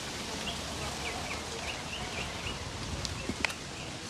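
Small birds chirping in short repeated calls over a steady outdoor background hiss, with one sharp click about three and a half seconds in.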